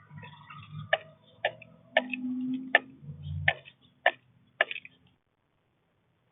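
A series of seven sharp taps, roughly two a second, over a faint low hum; the sound cuts off abruptly about five seconds in.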